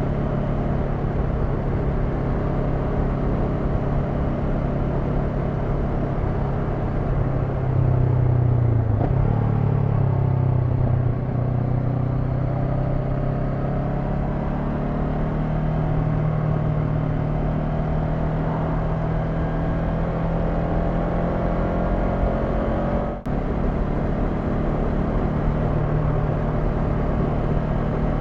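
Honda NX500's parallel-twin engine running under way, heard from the rider's position over road and wind noise. Its pitch dips and wavers about nine seconds in, then climbs steadily as the bike accelerates, with a brief sharp break about 23 seconds in like a quick gear change before it settles into a steady cruise.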